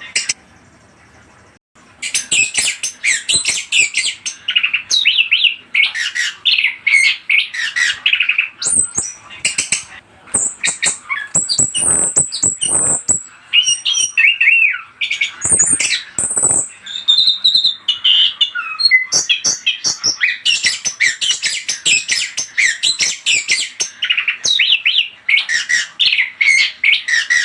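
Orange-headed thrush (anis kembang) singing a fast, varied, chattering stream of high notes and whistles, used as a lure call for other anis kembang. The song stops briefly from about half a second to two seconds in, then runs on without a break.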